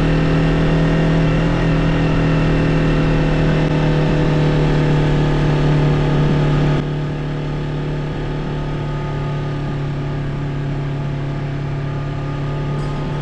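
Yamaha motorcycle engine running steadily at cruising speed, heard from the rider's seat. About seven seconds in the sound drops a little in level and turns duller.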